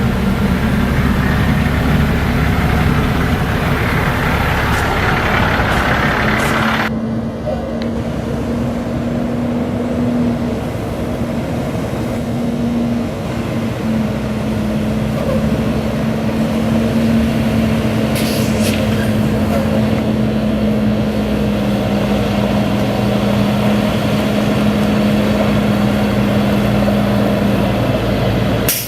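Heavy truck's Caterpillar C7 diesel engine running steadily. A loud rushing noise runs over it for the first seven seconds or so and cuts off suddenly, leaving the engine's low hum with a steady whine.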